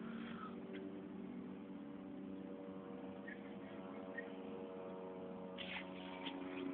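Steady machine hum, like a running motor or household appliance, with a few faint short high chirps partway through and some brief scratchy noises near the end.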